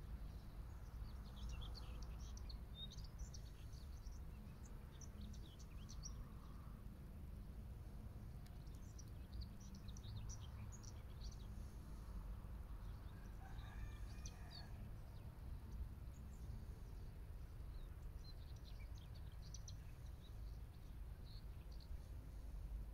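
Faint outdoor ambience: small birds chirping in scattered short bursts over a steady low rumble, with a brief lower-pitched call about halfway through.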